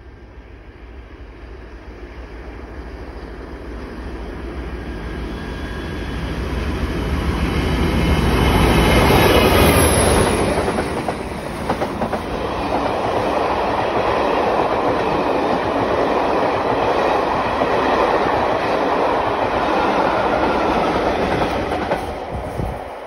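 Diesel-hauled passenger train with Class 47 locomotives passing at speed. The engine noise and rumble build steadily and are loudest as the leading locomotive goes by about nine seconds in. A steady rolling rumble and clickety-clack of carriage wheels follows, then dies away near the end as the train draws off.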